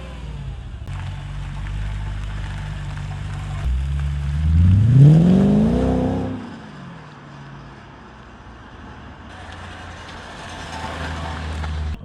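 Audi S4's V8 engine running steadily. About four seconds in it revs up and then falls back to a lower, quieter run.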